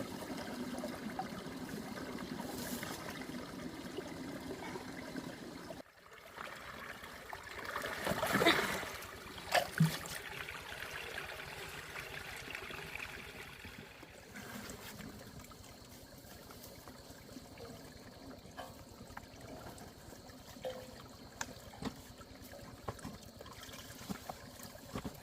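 Water trickling and running steadily. About eight seconds in, a louder swell of flowing water is followed by a couple of short knocks, then a quieter trickle with small ticks.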